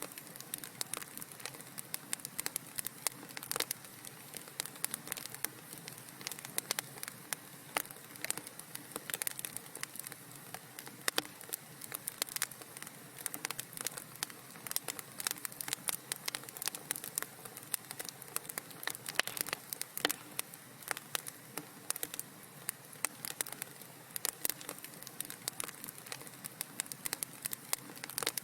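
Fireplace fire crackling: many small irregular pops and snaps over a soft steady hiss.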